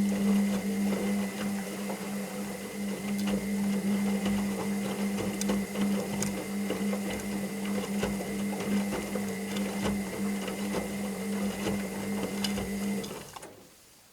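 Washing machine motor turning the drum during the wash: a steady hum with a thin whine and light clicking and rattling, which stops near the end as the drum pauses.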